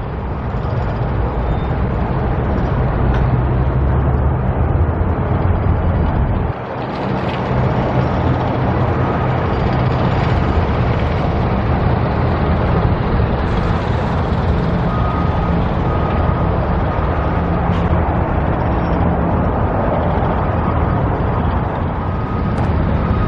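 Engine of a man lift running steadily while the lift is lowered, with its motion alarm beeping repeatedly from a little past halfway.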